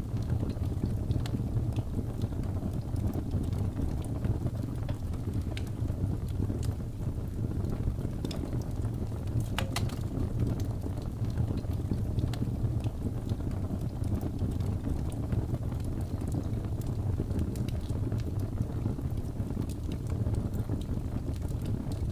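Wood fire burning: a steady low rumble with scattered small crackles and pops, one sharper pop about ten seconds in.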